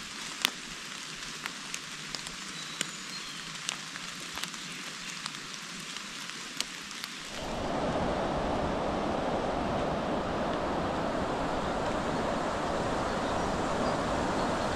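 Rain falling steadily in a beech wood, with scattered sharp drips landing close by. About seven seconds in the sound switches to a louder, fuller, steady rushing noise.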